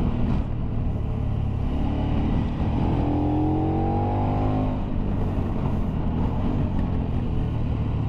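Motorcycle engine under way over heavy wind rush, its pitch rising as it accelerates for a second or two around the middle.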